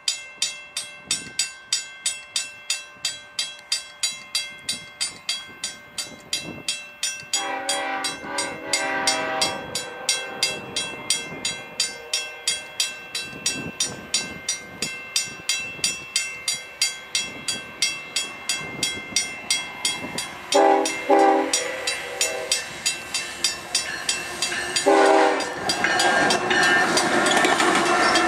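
Level-crossing signal bell ringing steadily, about two and a half strikes a second, as the train approaches. The lead GE ES44AC diesel locomotive's air horn, blown for the crossing, gives one long blast about a quarter of the way in, then shorter blasts twice more later on. Near the end the locomotives pass close by, their engines and wheels running loud.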